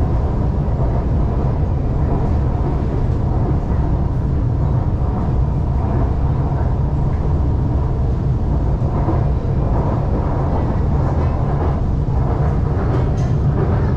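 Shanghai Metro Line 2 train running, heard from inside the car as a steady, loud low rumble, with a few faint clicks near the end.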